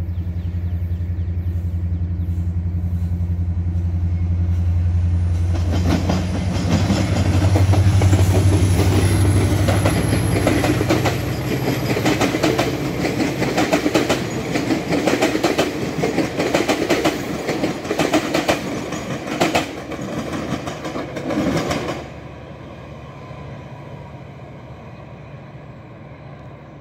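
GO Transit commuter train of bilevel coaches passing at speed behind its diesel locomotive. A steady low engine hum leads, then a long run of rhythmic wheel clickety-clack that stops abruptly about three-quarters of the way through, leaving a fading rumble.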